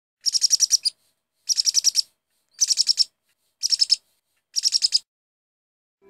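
Bird chirping: five short trills about a second apart, each a quick run of six to eight high chirps.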